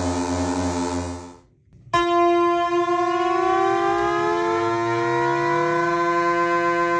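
Behringer Model D analog synthesizer playing a sustained, pulsing note that fades away about a second in. After a brief gap it plays a new held note while a second tone slowly slides up in pitch against it, a siren-like glide.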